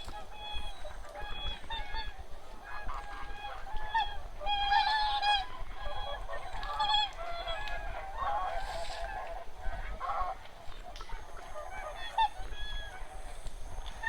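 A large flock of wild geese and swans honking, many calls overlapping without a break.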